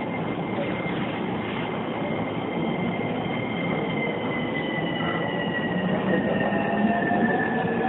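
Running sound inside an E231-1000 series electric train car: rolling wheel and rail noise with the whine of its Mitsubishi Electric VVVF inverter and traction motors. The whine's pitches slowly shift, with tones rising near the end as the train gathers speed.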